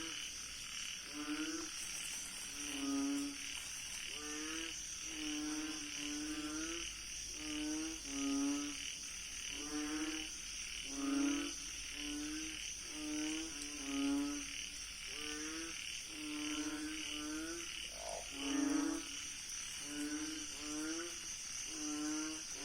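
A frog calling over and over, a short low croak with a slight upward slide repeated about once every second and a quarter, over a steady high-pitched chorus of night insects.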